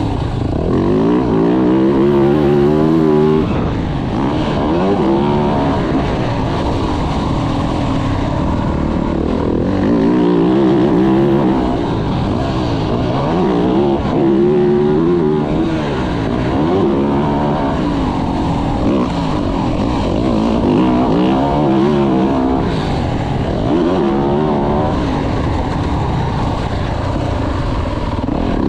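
2024 Yamaha YZ450F's 450 cc single-cylinder four-stroke engine under hard riding on a motocross track, heard on board. The revs climb and drop again and again, every two to four seconds, as the rider throttles up and backs off.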